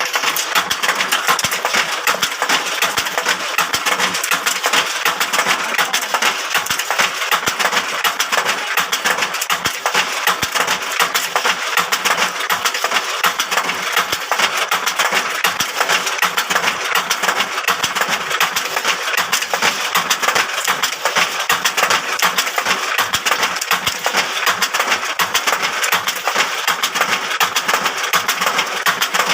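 Machine for making bamboo satay skewers running, a dense continuous rattle of rapid fine clicks.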